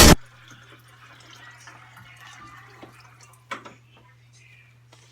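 Music cuts off right at the start, leaving quiet room tone with a steady low hum and faint scattered small noises, and one sharp click about three and a half seconds in.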